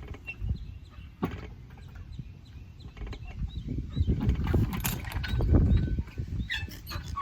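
Small birds chirping over a low rumbling noise that swells about four to six seconds in, with a few sharp clicks.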